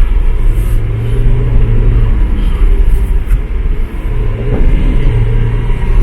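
Lamborghini Aventador's V12 engine running as the car is driven, a steady low drone that drops back about two seconds in and comes up again about four seconds in.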